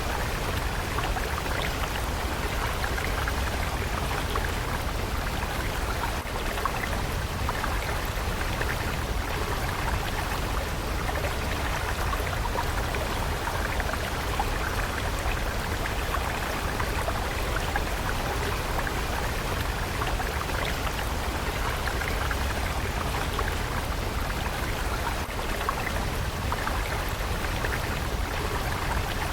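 A flowing water stream, running steadily with a continuous rush and fine splashing.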